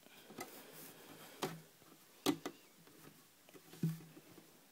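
Faint handling noise: about four light clicks and knocks spread over a few seconds, the loudest about halfway through, with quiet room tone between.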